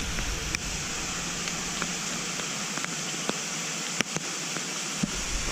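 Steady rain falling, an even hiss, with a few scattered sharp ticks.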